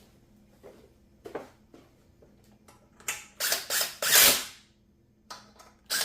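Ratchet wrench turning bolts on a minibike during reassembly: a few faint clicks, then a run of short, loud rasping strokes about three to four and a half seconds in, and more starting near the end.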